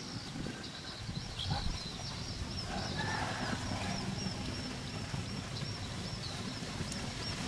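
A bird calling in a long run of short, high, evenly repeated chirps, several a second, over a low outdoor rumble.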